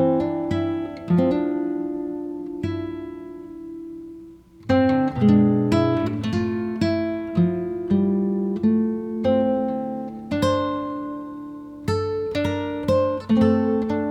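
Background music: an acoustic guitar playing plucked notes. About three seconds in, a chord is left ringing and fades, and near five seconds the picking starts up again.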